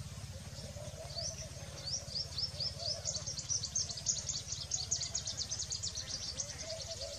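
Small bird giving a rapid run of short, rising, high-pitched chirps, thickening to about five a second in the middle and thinning near the end, over a steady low background rumble.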